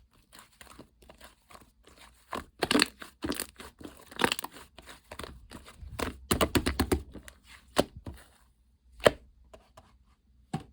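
Slime being squished and pressed by hand, giving crackly, crinkling clicks and pops in irregular bursts, busiest around three and six to seven seconds in and sparse near the end.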